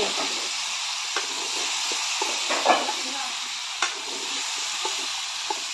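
Pork and papaya pieces sizzling steadily in a black kadai, stirred with a metal spoon that clicks and scrapes against the pan a few times.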